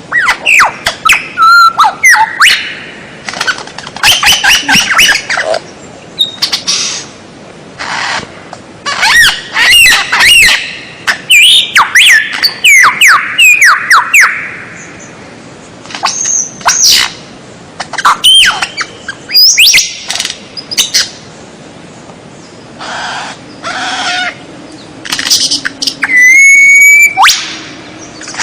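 A songbird singing a loud, varied song of quick sweeping whistles and harsher chattering notes. It comes in phrases of one to three seconds with short pauses between them. This is the kind of song used as masteran, a tutor recording played to caged songbirds.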